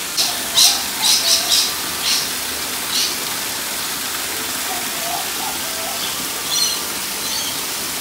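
Birds calling: a quick run of sharp, high chirps in the first three seconds and a few fainter ones near the end, with soft whistled notes underneath, over a steady rush of running water from a small rock waterfall.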